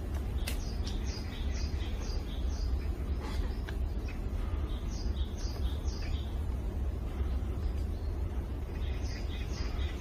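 Bird chirping: runs of short, high, falling chirps, about two or three a second, near the start, in the middle and near the end. Underneath is a steady low rumble, and a few single sharp knocks are heard in the first few seconds.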